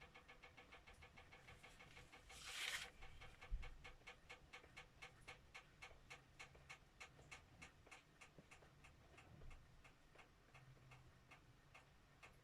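Ballpoint pen scratching on paper in quick, even back-and-forth strokes, about four or five a second, as areas are shaded in with the biro. Faint, with one longer scratch about two and a half seconds in.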